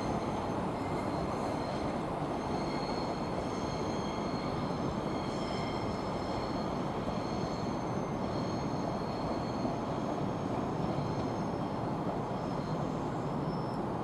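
A train running past at a platform: a steady rumble with faint high squealing tones that shift in pitch and come and go.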